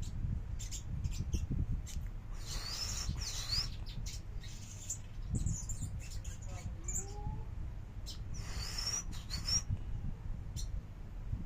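A songbird calling in short, high chirps and quick rising whistled notes, with a few lower rising whistles near the middle, over a steady low rumble.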